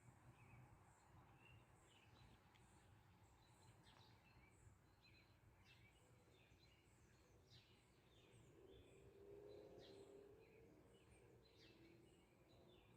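Faint birdsong: many short chirps and calls from several birds over quiet rural ambience, with a faint low hum near the middle.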